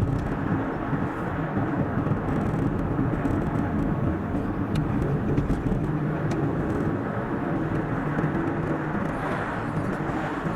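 Steady car road noise, the tyre rumble and engine hum of a car cruising along a highway, sped up to double speed.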